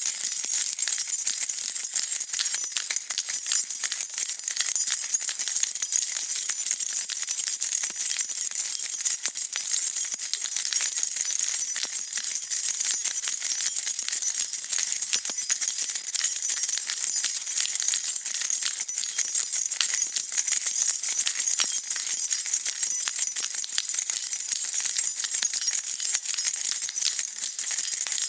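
A bunch of metal keys being shaken and jingling steadily, a dense run of bright metallic clinks without a break.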